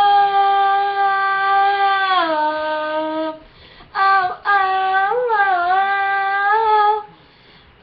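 A female voice singing unaccompanied, sustaining long wordless notes at the end of a song. One held note steps down about two seconds in and breaks off, then after a short breath a second long held phrase with a small turn in the middle ends about seven seconds in.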